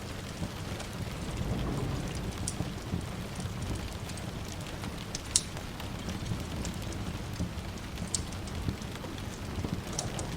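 Steady rain with a low rumble of distant thunder swelling about a second and a half in, and scattered sharp crackles of a wood fire, the loudest about five seconds in.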